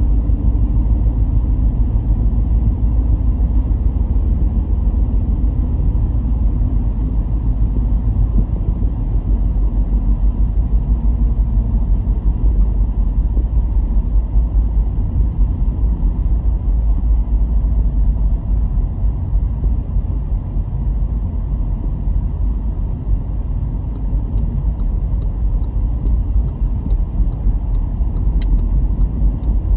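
A car driving along with a steady low rumble of engine and road noise. A couple of faint clicks come near the end.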